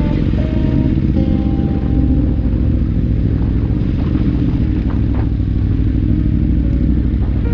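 Steady low rumble of motorcycle riding noise, engine and wind, with background music playing a stepping melody of short notes over it.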